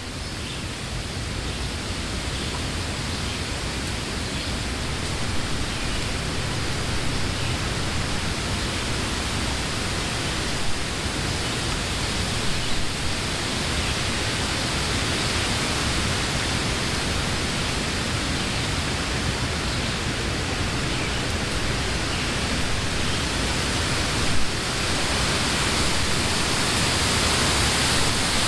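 Summer wind blowing through trees, a steady rushing of leaves that swells gradually louder toward the end.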